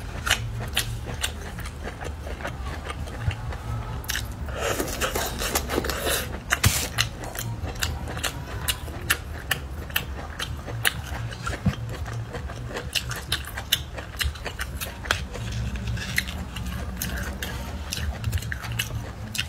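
Close-miked crunchy chewing and biting of spicy-coated bamboo shoots: many sharp, crisp clicks, with a longer rustling stretch about four seconds in, over a steady low hum.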